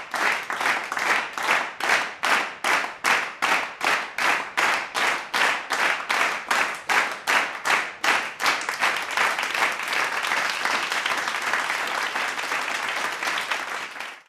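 Rhythmic clapping, about three claps a second, that gives way to continuous applause about eight seconds in and then cuts off suddenly.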